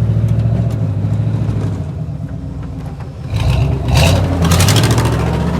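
Vehicle engine running steadily, then revving about three and a half seconds in, together with a loud rush of noise.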